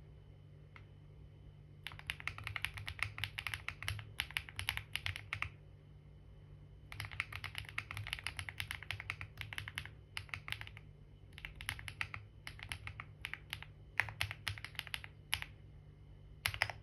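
Typing on a computer keyboard: runs of rapid keystrokes lasting a few seconds each, broken by short pauses, with a brief final flurry near the end.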